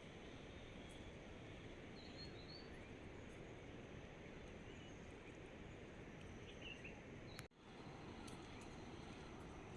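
Steady, faint rain falling, with a few faint bird chirps; the sound briefly cuts out about seven and a half seconds in.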